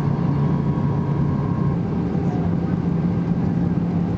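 Steady engine and airflow drone inside the cabin of an Airbus A320 airliner, with a low hum and a faint high tone that stops under two seconds in.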